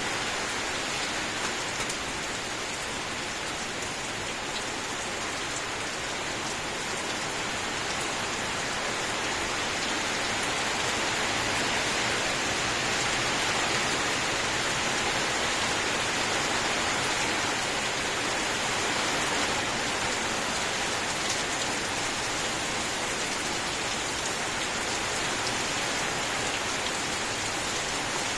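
Steady rain falling, a dense even hiss of countless drops with no thunder or other events, swelling a little in the middle before easing back.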